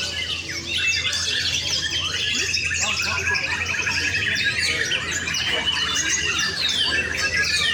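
Several white-rumped shamas singing at once in a songbird contest, loud overlapping whistled phrases and chatters, with a long rapid trill through the middle.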